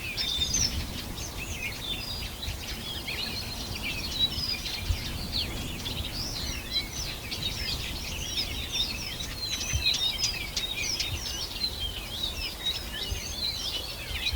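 Many small birds singing and chirping together in a dense chorus of short, quick high notes and glides, over a low background rumble.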